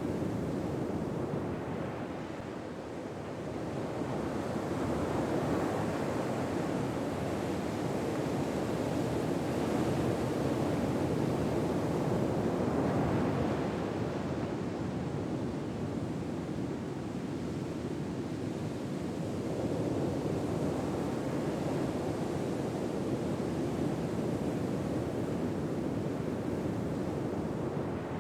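Ocean waves washing on a shore, a steady surf that slowly swells and eases every ten seconds or so.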